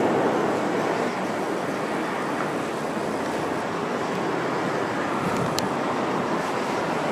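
Steady roaring rush of strong typhoon wind mixed with the rumble of an airliner's jet engines on approach, a little louder in the first second and then even.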